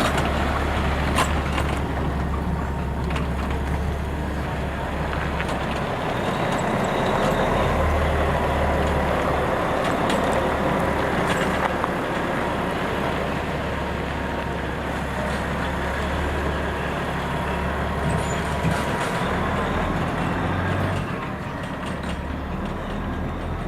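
Heavy trucks running on a road: a steady low engine rumble with tyre and road noise, easing off a little near the end.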